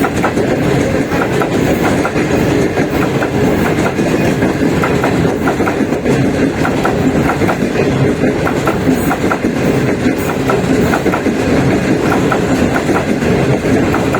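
Passenger train running along the track: a steady noise of the moving train, with many quick, irregular clicks from the wheels on the rails.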